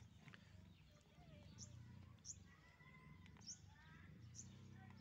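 Near silence over a low hum, with faint, short, high chirps about four times, bird-like, and a few faint warbling calls in the middle.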